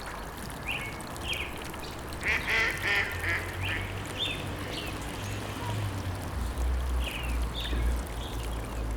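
Short bird calls in the wild, with a quick run of several calls about two to three seconds in and single calls after, over a steady low rumble of outdoor background.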